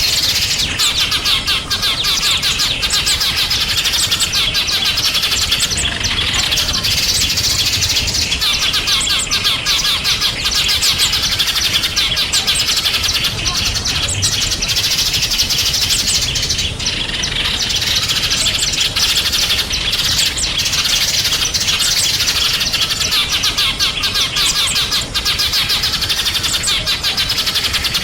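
A dense chorus of small songbirds chirping and twittering without a break, many high, rapid notes overlapping.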